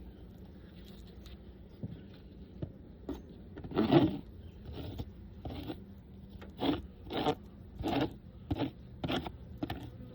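A run of about ten short scraping strokes on a beehive frame, starting about four seconds in, as moth-damaged comb is scraped off.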